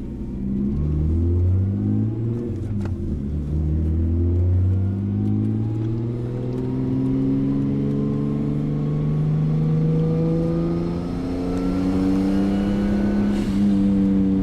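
Straight-piped Nissan RB20 turbocharged inline-six running under light load, its exhaust note stepping about for the first few seconds and then rising slowly and steadily in pitch as the car gently picks up speed.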